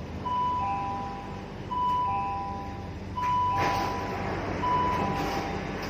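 Metro train's electronic two-tone chime, a higher note followed by a lower one, repeating about every second and a half, four times, over the steady low rumble of the train. A short burst of hiss comes about three seconds in.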